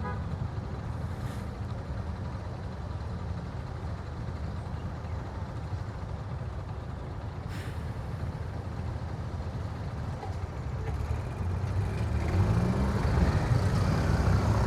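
Motorcycle engine running with wind and road noise on a helmet or bike-mounted camera, a steady low rumble that grows louder about twelve seconds in.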